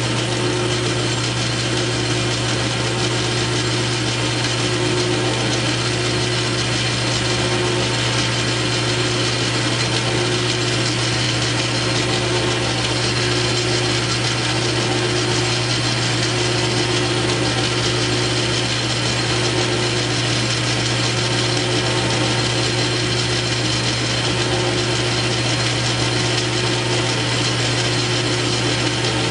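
South Bend 9-inch lathe running steadily, taking a cut under power feed: a constant motor and belt hum with gear-train whirring and a faint pulse that repeats about once a second.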